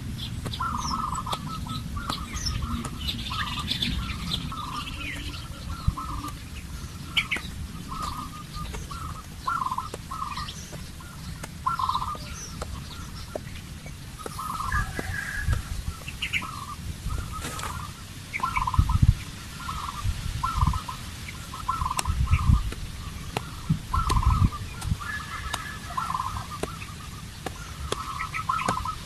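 Birds calling: short squawking calls repeated about once a second, with scattered higher chirps and irregular low rumbling thumps underneath.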